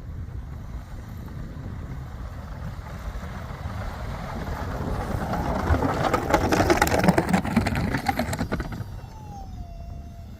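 Low, steady rumble of a vehicle's engine running, heard from inside the cab. From about four to nine seconds in, a louder rushing, crackling noise rises over it, and a thin falling tone follows near the end.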